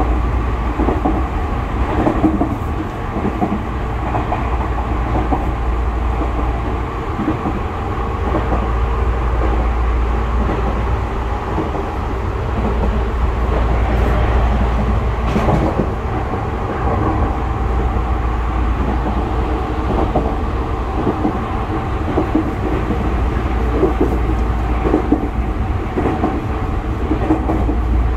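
Tokyu 5000 series electric train running at speed, heard inside the passenger car: a steady rumble of wheels on rail with a constant motor tone over it, and a few brief clacks.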